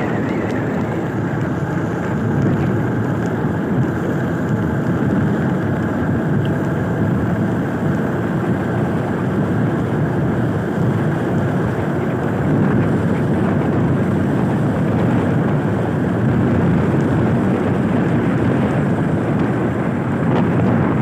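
A vehicle engine running steadily while moving, with wind buffeting the microphone.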